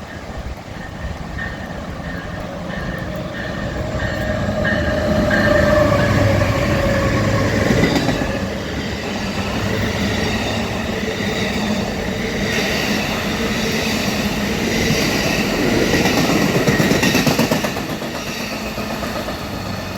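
Amtrak Coast Starlight passenger train passing at speed. The diesel locomotives grow louder and their pitch drops as they go by, about six to eight seconds in. A long string of passenger cars then rolls past, loudest near the end.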